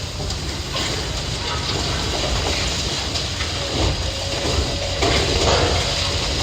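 Heavy demolition machinery at work tearing down a building: a steady low diesel rumble with scattered crunches and knocks of breaking debris, and a thin steady squeal through the second half.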